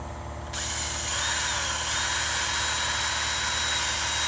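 Power drill boring a mounting hole through a cedar picket board, starting about half a second in and running steadily with a high whine that dips slightly as the bit loads.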